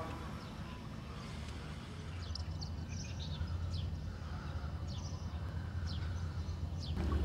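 Small birds chirping: a string of short, high, downward chirps from about two seconds in, over a steady low rumble.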